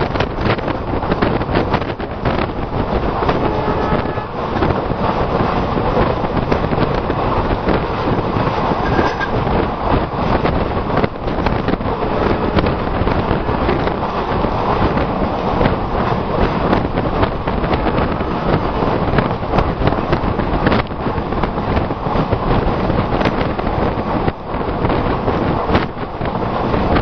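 An express train running on the rails with a steady, loud rush and rumble, mixed with wind buffeting the microphone.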